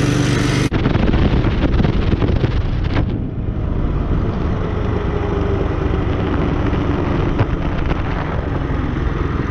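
Mossimo MB200 trail minibike's small engine running while riding, with heavy wind buffeting on the microphone; the tone breaks off abruptly about a second in, then continues as a rumbling, wind-blasted drone.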